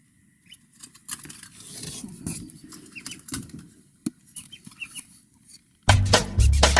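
Turkey poults peeping with short chirps and scrabbling about in their box. Near the end, banjo music with a steady beat comes in loudly.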